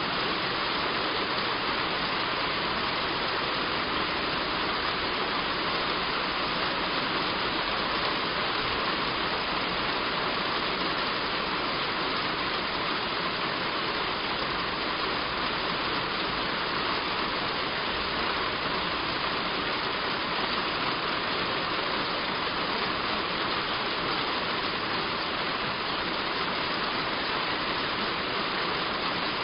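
Heavy rain falling steadily on a roof, a dense even hiss without separate drops standing out.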